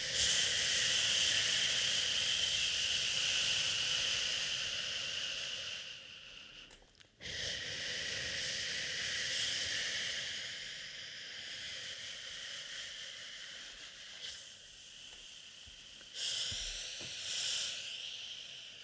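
A person shushing in long, drawn-out 'shhh' sounds, with a short break about seven seconds in, then getting softer from about halfway through.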